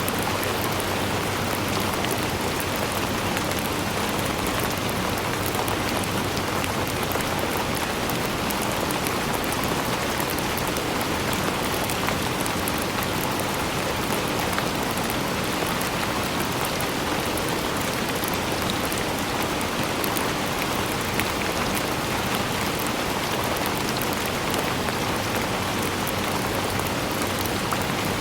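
Steady rain falling, an even hiss of rainfall with many fine individual drops pattering on surfaces.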